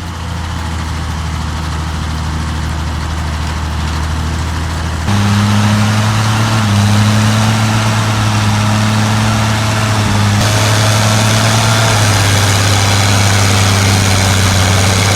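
Heavy construction machine's diesel engine running steadily under load. Its low hum jumps suddenly to a higher, louder note about five seconds in and shifts again about ten and twelve seconds in.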